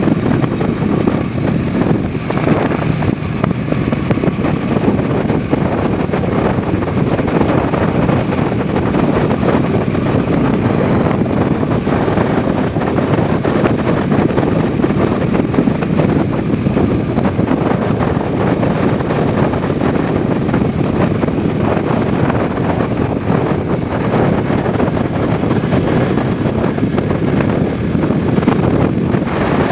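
Bajaj Dominar 400's single-cylinder engine and exhaust running steadily while riding along, with wind noise buffeting the action camera's microphone.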